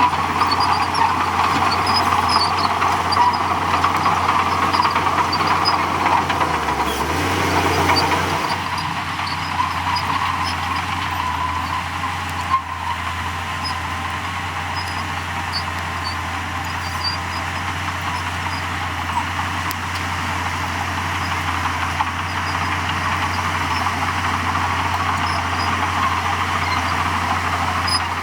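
Heavy diesel earthmoving machinery running steadily, with a low engine hum and a mechanical noise that shifts about eight seconds in.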